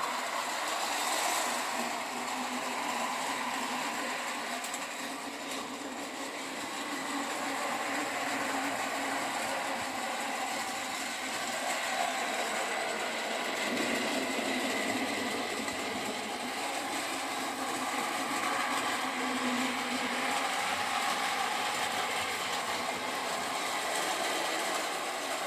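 Small battery-powered Daiso toy train running along its plastic track, its little motor giving a steady whir.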